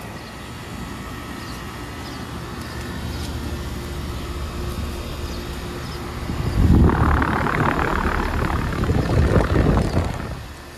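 Outdoor heat pump condensing units running in cool mode: a steady compressor hum with condenser fan noise. A louder rushing noise swells up about halfway through and lasts about three seconds before falling back.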